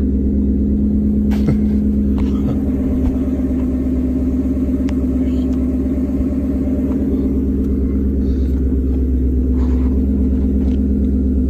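A 2016 Ford Mustang GT's 5.0-litre V8 idling steadily, heard from inside the cabin. It runs evenly with no miss, the failed upstream O2 sensor having just been replaced.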